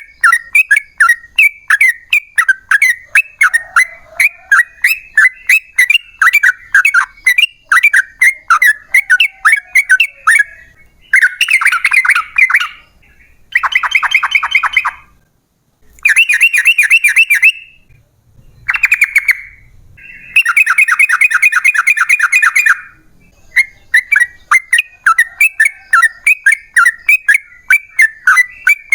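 Yellow-vented bulbul (trucukan) singing: a fast chatter of short, loud notes, broken about eleven seconds in by five long rapid trills (the "ropel"), after which the chatter resumes.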